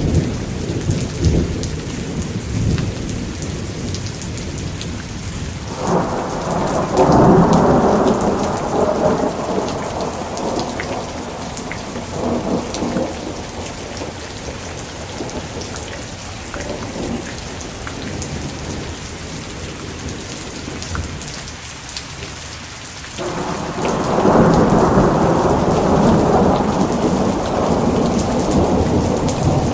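Steady rain with rolling thunder. One long rumble builds about six seconds in and fades over several seconds, and a second roll swells near the end.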